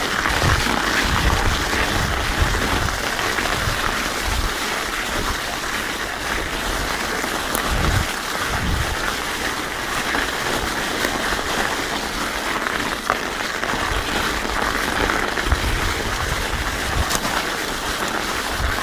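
Mountain bike rolling over an icy trail: a steady, rain-like crunching hiss from Terrene Cake Eater studded tires on ice and frozen ground, with a few sharp clicks. Wind buffets the microphone in low rumbling gusts.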